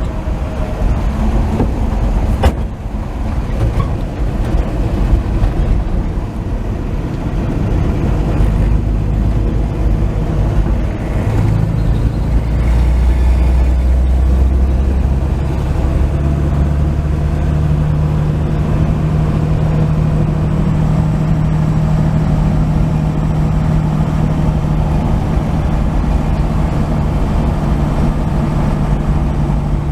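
1949 Chevy 3100 pickup's inline-six engine and road noise while driving. The engine note shifts about twelve to sixteen seconds in, then settles into a steady drone. There is a single sharp knock a couple of seconds in.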